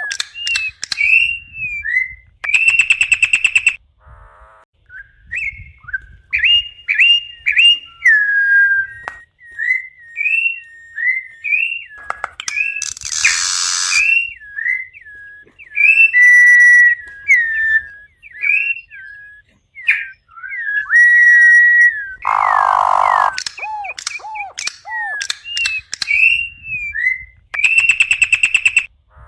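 Campo troupial (corrupião) singing: a steady run of loud, clear whistled notes and slurred phrases, repeated again and again, broken twice by a harsh raspy note.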